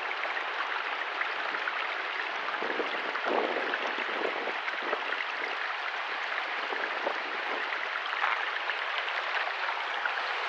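Steady rushing of a small mountain stream, an even watery hiss with faint splashes and a few soft knocks.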